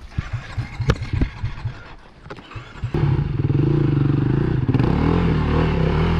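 Four-stroke dirt bike engine, a KTM 350 EXC-F single, ticking over at low revs with a few sharp knocks and clatter of rocks. About three seconds in it is opened up and held at higher revs, the pitch wavering as the bike is worked over rocky ground.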